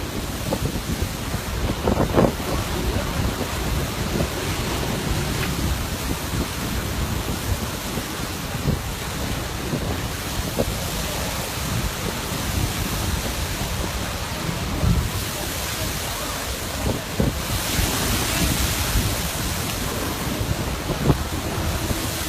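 Steady rushing noise of wind and water, with irregular low buffets of wind striking the microphone.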